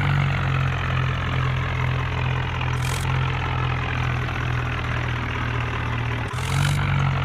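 Mahindra tractor's diesel engine running steadily at a constant speed, with short bursts of hiss about three seconds in and again near the end.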